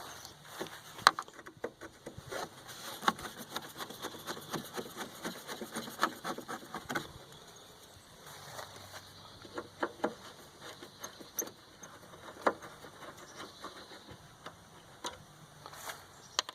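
Irregular clicks, taps and knocks of a screwdriver and loose metal and plastic parts being handled as a window air conditioner unit is taken apart, with a quick run of clicks about five to seven seconds in.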